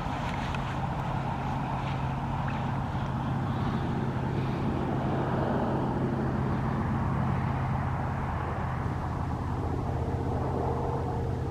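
A motor vehicle's engine running steadily, a constant low hum with road and wind noise over it.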